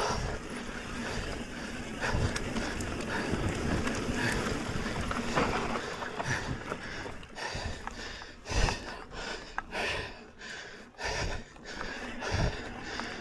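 Mountain bike riding along a dirt trail: steady tyre noise with wind on the microphone, then a stretch of knocks and rattles as the bike goes over rough ground in the second half.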